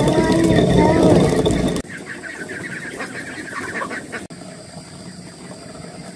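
Short bird calls over a loud noise that cuts off abruptly about two seconds in, leaving quieter sound with faint chirps.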